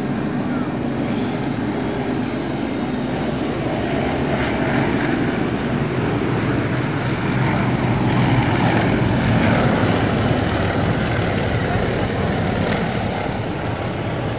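Several Yak-50 aerobatic planes passing in formation, their nine-cylinder radial engines and propellers running steadily. The sound builds to its loudest a little past halfway, then eases slightly.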